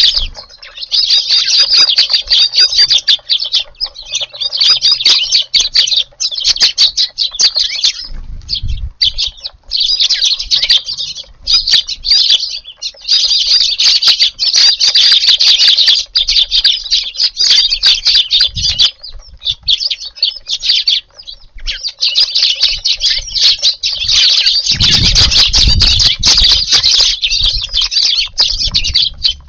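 A crowd of Eurasian tree sparrows chirping at a feeding spot, many birds calling at once in a dense, almost unbroken chatter with a few short lulls. Dull low rumbles come in briefly about eight seconds in and again for a couple of seconds near the end.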